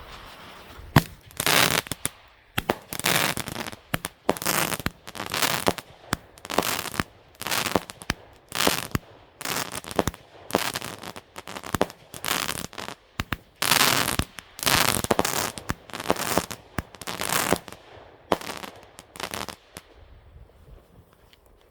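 A consumer firework cake firing, about one launch bang a second with a short hiss after each, then stopping near the end. The fuse to the next cake in the chained cake pack blows out instead of lighting it.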